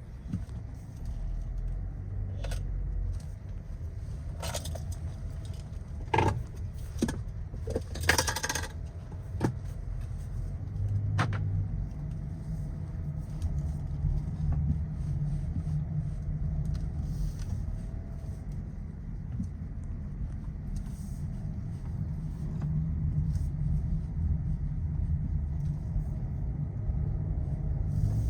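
Skoda Kodiaq RS's turbocharged 2.0 TSI four-cylinder petrol engine running on the move: a steady low rumble with road noise. Several sharp clicks and knocks come between about 2 and 11 seconds in.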